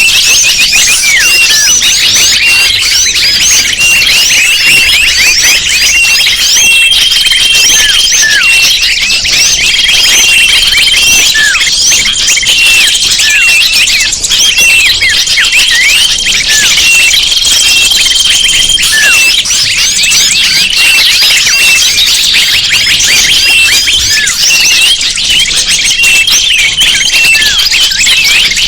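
A dense, loud chorus of many small birds chirping and chattering at once, used as a bird-lure call. Long level whistled notes repeat every second or two through much of it.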